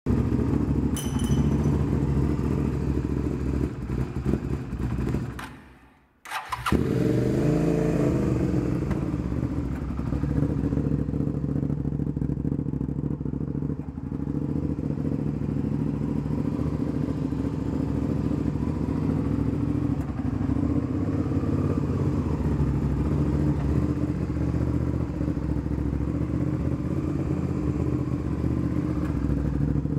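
2002 Suzuki SV650's V-twin engine running. About six seconds in the sound drops out briefly, then the engine fires with a sharp start, rises briefly and settles into a steady idle for the rest of the time.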